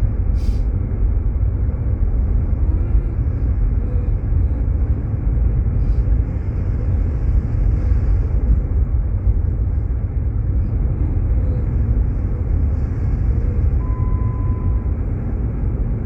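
Steady low rumble of road and engine noise inside a Jeep Grand Cherokee's cabin, driving slowly on a snowy road. About fourteen seconds in, a single short electronic tone sounds: the tire pressure sensor warning.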